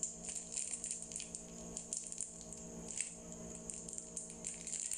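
A person chewing soft, sticky mochi (glutinous rice cake) with the mouth closed: a run of small, wet clicks and squishes.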